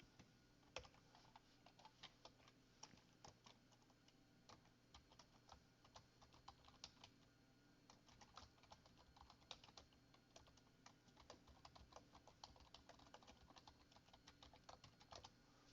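Faint computer keyboard typing: irregular key clicks, several a second, continuing throughout.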